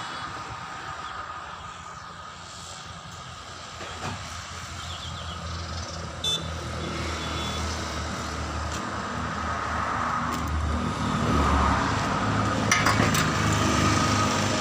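A truck-sized vehicle engine running with a low rumble that grows louder over the last several seconds, with a few light metallic clinks.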